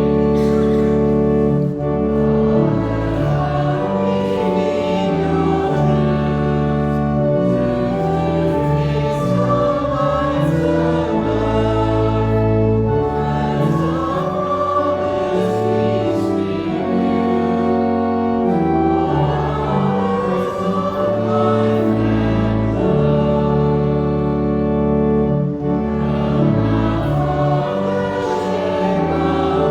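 Congregation singing a hymn together over held chords from an instrumental accompaniment, the chords changing every second or two.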